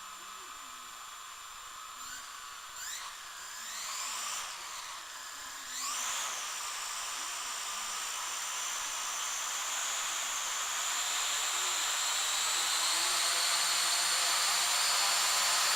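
Hubsan H502S mini quadcopter's motors and propellers: a few short rising whines as they spin up, then a steady high-pitched whine that climbs slowly and cuts off suddenly near the end. These are the drone's motors running on test after its receiver board was replaced.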